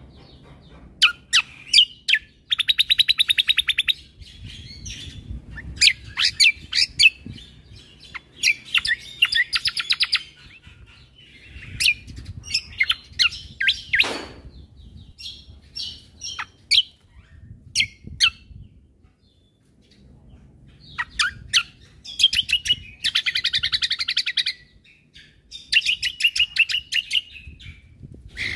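Cucak kombo (kecial kombo) songbird singing: sharp chirps and fast rattling trills of rapidly repeated notes, delivered in short bursts with brief pauses between them. This is the full, rapid-fire "tembakan" song used as a tutor recording.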